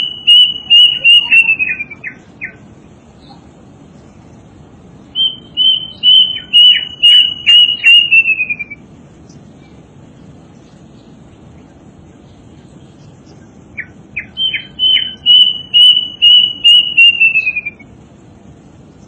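A bird calling in three bouts of quick, high repeated notes, about two to three a second, each bout falling slightly in pitch at its end.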